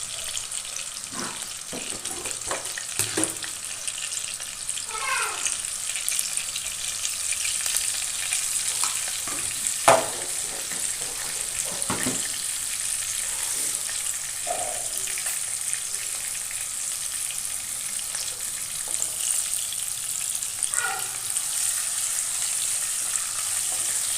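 Potato pieces frying in hot oil in a kadai, a steady sizzle, while a utensil stirs them now and then with short scrapes and knocks against the pan; the sharpest knock comes about ten seconds in.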